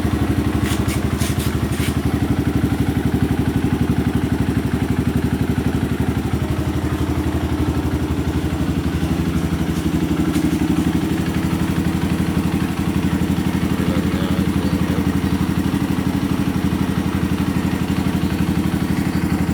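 Honda CRF150L's single-cylinder four-stroke engine idling steadily through an aftermarket Over Racing exhaust.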